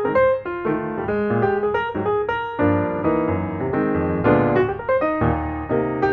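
Background piano music with chords and a melody of short struck notes.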